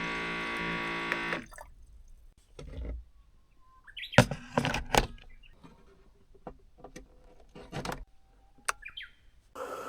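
Background music that stops about a second in. It is followed by scattered small knocks and clicks, the loudest cluster about four to five seconds in, and then a steady hiss that begins near the end.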